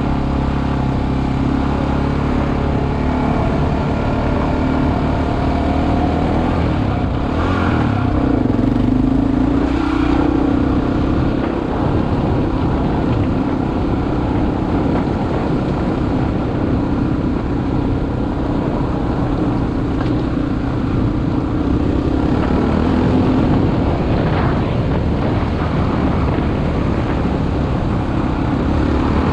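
Single-cylinder four-stroke dual-sport motorcycle engine running under way off-road, its pitch rising and falling with the throttle, over wind noise at a helmet-mounted microphone.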